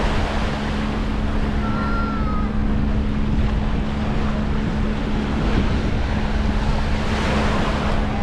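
Wind on the microphone and surf on a beach, with a steady low motor hum underneath. A short high whistle comes about two seconds in.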